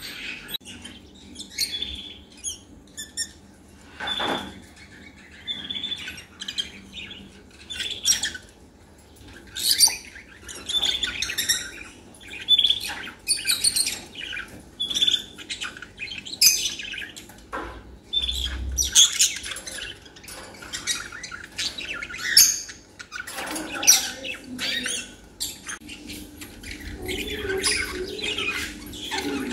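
Many small caged birds chirping and squawking in quick, overlapping calls.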